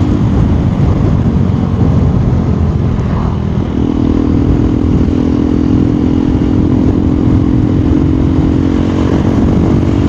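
KTM Duke 390 single-cylinder engine running while the bike is ridden, with wind rushing over the microphone. The engine note drops away just after the start and comes back as a steady drone about four seconds in.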